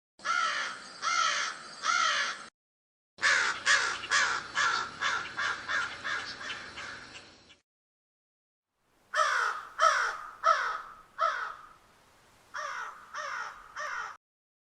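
Crow cawing in harsh, falling caws: three caws, then a quick run of about a dozen that fade away, then four loud caws and three softer ones, the groups separated by abrupt silent gaps.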